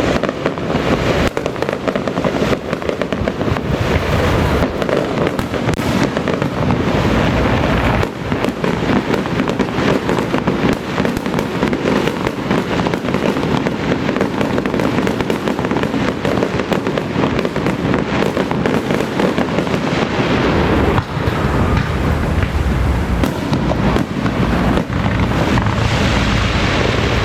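Firecrackers going off in a dense, continuous crackling barrage, hundreds of rapid bangs blending together, with a short lull about eight seconds in.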